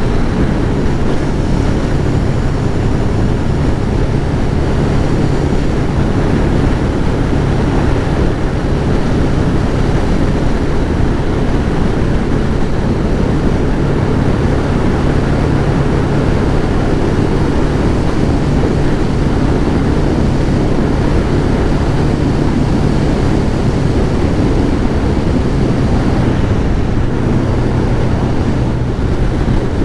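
Wind rushing over the microphone with a Kawasaki ZX-11 Ninja's inline-four engine running at a steady cruise, its pitch holding level.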